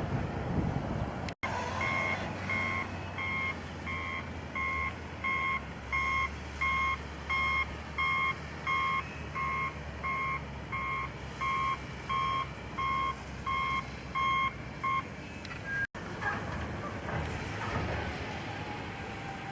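Vehicle backup alarm beeping at an even pace, about three beeps every two seconds, over a low engine rumble; the beeping stops a few seconds before the end.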